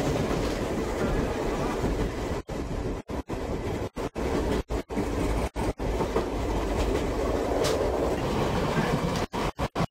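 Tobu 5700 series electric train running, heard from inside the passenger car as a steady rumble with some clickety-clack of the wheels. The sound drops out briefly many times, more often near the end.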